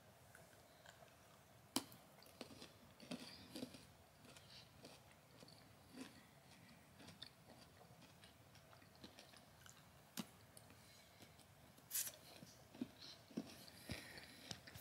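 Faint chewing and crunching of a crispy rice milk chocolate bar, with a few sharper clicks scattered through.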